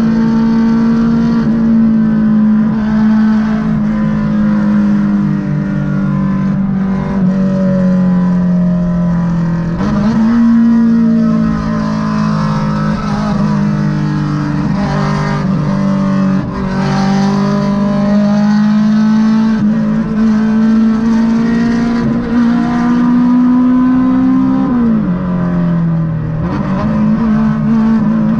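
Honda Civic EK4's naturally aspirated VTEC four-cylinder heard from inside the cabin at highway speed, over road and wind noise. The engine note sinks steadily as the car slows and jumps up in pitch about ten seconds in. It then climbs slowly under gentle acceleration, dipping briefly and recovering near the end.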